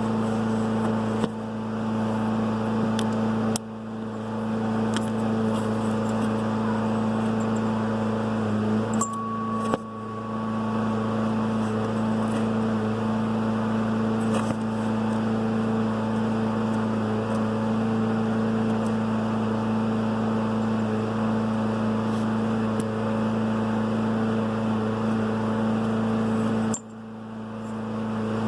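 Dodge Neon SRT-4's turbocharged four-cylinder engine idling steadily, with light metallic ticking and clinking over it from a Garrett GTX3076R turbo whose worn shaft has enough play to let the compressor wheel hit its housing.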